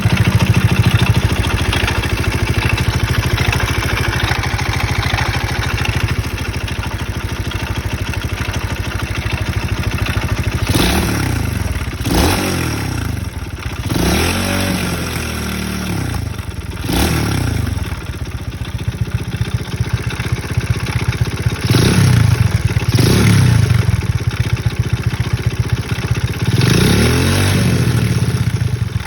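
Alpha 110 moped's single-cylinder four-stroke engine idling steadily, then blipped repeatedly, its pitch rising and falling with each rev. It knocks from near the clutch.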